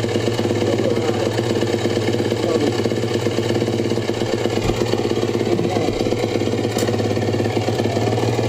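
Yamaha YZ450F dirt bike's single-cylinder four-stroke engine idling steadily.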